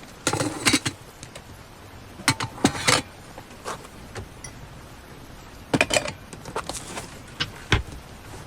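Several short bursts of rattling and knocking, like objects being handled and set down, with one sharp knock near the end, over a steady hiss of rain.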